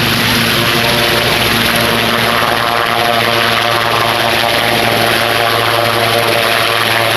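Helicopter's engine and rotor running loud and steady, a constant whine over a broad rushing noise.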